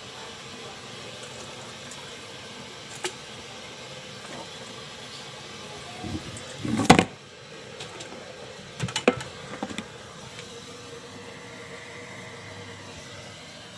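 Pot of bakso meatballs boiling, a steady bubbling hiss, with a loud clatter about seven seconds in and a few sharper knocks a couple of seconds later.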